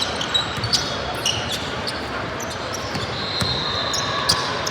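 Basketball game sounds: a ball bouncing on the court in sharp, irregular knocks over the murmur of voices in the gym, with a drawn-out high squeak about three seconds in.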